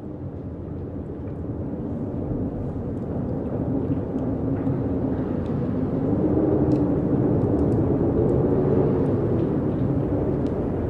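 Strong wind blowing, a deep rushing noise with a low wavering tone in it, building in strength over the first few seconds and then holding steady.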